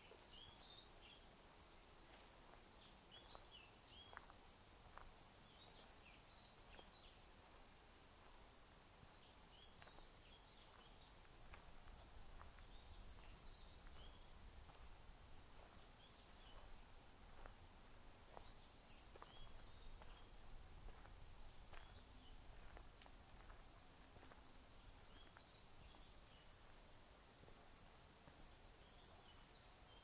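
Faint small-bird chirps, high and thin, coming often and at irregular intervals, with a few soft ticks and a faint low rumble beneath.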